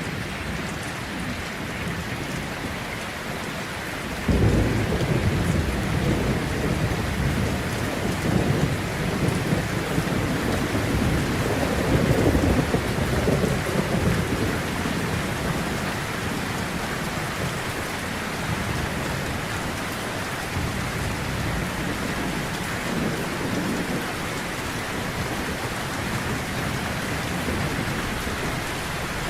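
Heavy rain on a tin roof, a steady hiss, with a long roll of thunder that breaks in suddenly about four seconds in, swells twice and fades away over the next ten seconds or so.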